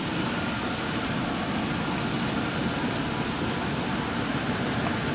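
Steady hum and hiss of an idling patrol car engine.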